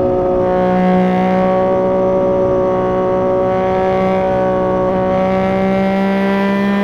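Yamaha MT-09's three-cylinder engine running through an aftermarket Dominator GP3 exhaust at highway speed. It holds one gear with a steady note whose pitch rises slowly as the bike gently accelerates.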